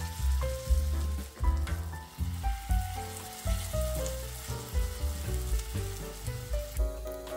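Cauliflower fritter batter frying in hot oil in a pan, a steady sizzle, under instrumental background music with a melody and bass line.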